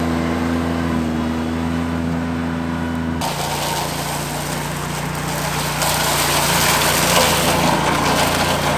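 Compact tractor engine running steadily, heard in edited shots that cut abruptly to a different engine pitch about three seconds in and again partway through.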